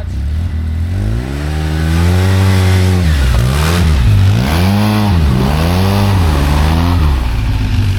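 Polaris side-by-side engine revving hard under load, its pitch rising and dipping several times, as it tows a second machine stuck in deep snow on a recovery rope.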